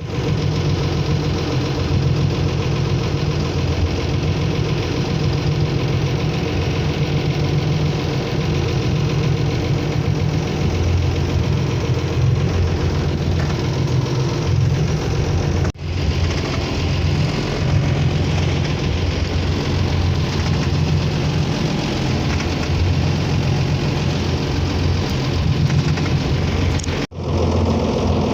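Motorboat engine running steadily under way, with a steady rush of noise over it. The sound cuts out briefly twice, about halfway through and near the end.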